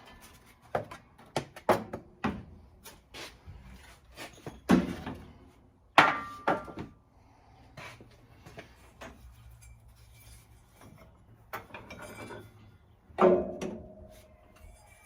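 Scattered clanks, clicks and knocks of hand tools and metal engine parts being handled during a teardown, a few louder ones with a short metallic ring.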